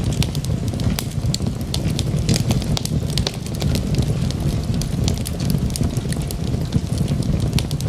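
Wood logs burning in a fireplace: a steady low rumble of the flames with frequent sharp crackles and pops.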